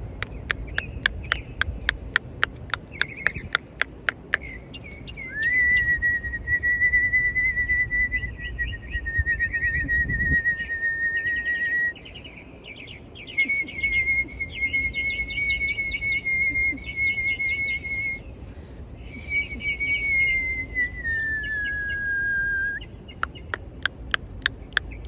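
Three long held whistled notes, each several seconds and fairly steady in pitch, the last sliding down slightly before it stops. Birds chirp rapidly and repeatedly around and under them.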